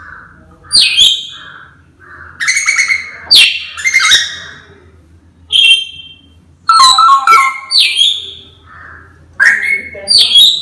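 Pet parrot giving a series of loud, harsh squawks and calls, with soft chirps in between.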